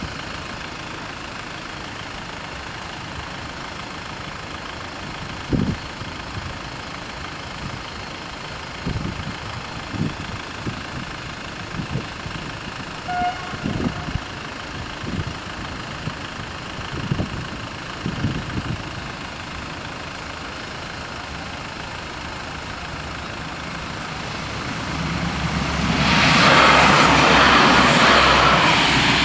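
Road traffic at a railway level crossing: irregular low thumps as vehicles bump over the rails, then one vehicle passes close and loud near the end.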